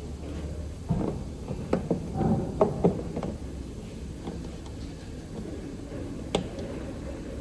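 A quick run of knocks and clatters for about two seconds, starting about a second in, then a few light taps and a single sharp click near the end, over a steady low hum.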